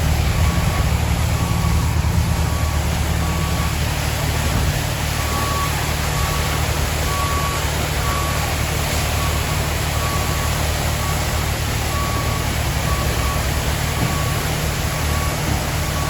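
Heavy truck engine running at a steady idle, with a reversing beeper sounding short high beeps about once a second.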